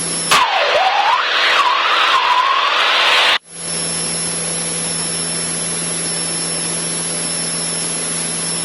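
Cessna 152's four-cylinder engine droning steadily at climb power, heard through the headset intercom as a steady hum. About a third of a second in, a burst of loud hiss with a wavering whistle-like tone takes over for about three seconds, then the steady drone returns.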